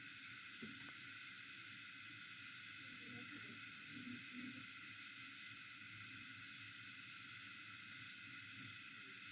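Faint, steady insect chorus, with a cricket-like chirp pulsing evenly a few times a second.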